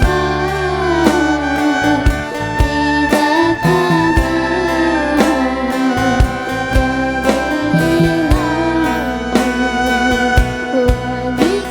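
Acoustic sholawat group music: a wavering melody line over steady low sustained notes, with percussion strokes throughout.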